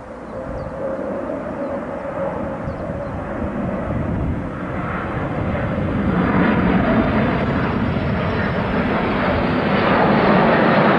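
Jet engines of a Boeing 787 airliner in flight, a steady roar that grows louder as the aircraft comes closer.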